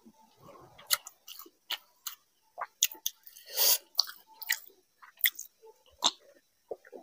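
Chewing a mouthful of rice and fish curry: a run of short wet mouth clicks and smacks, with one longer breathy sound about halfway through.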